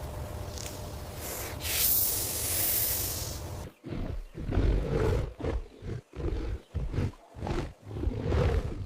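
Big cat, lion or tiger, roaring and growling: a long breathy roar over the first few seconds, then a run of short growls at about one or two a second.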